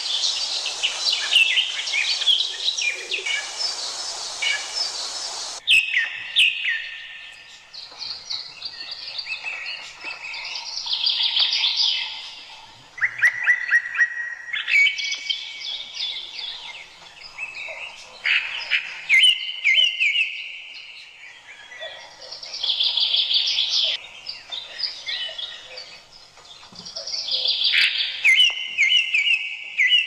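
Forest birds singing: a phrase of quick notes ending in a held, steady whistle, repeated every few seconds, with other calls mixed in. A loud steady hiss lies under the song and cuts off abruptly about six seconds in.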